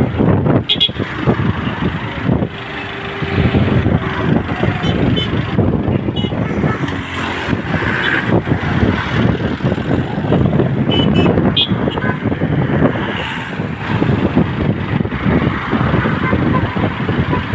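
Road traffic passing on a busy street, mixed with wind buffeting the microphone.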